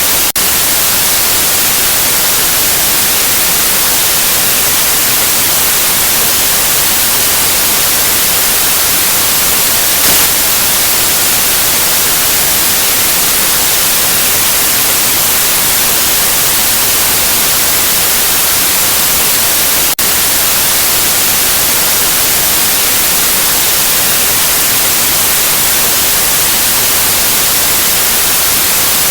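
Steady white noise: an even, full-range hiss with no change in level, broken only by a momentary dropout about twenty seconds in.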